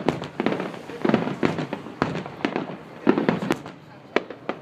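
Fireworks going off: an irregular series of sharp bangs with crackling pops after them, coming in clusters about twice a second.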